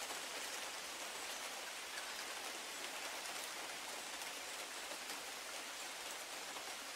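Steady rain falling on the branches of a conifer and on grass: an even hiss with faint ticks of single drops.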